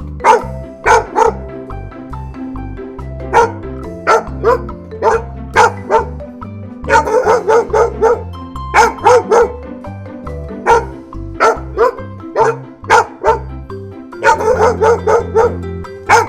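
Dog barking repeatedly, in single barks and quick runs of several, over background music.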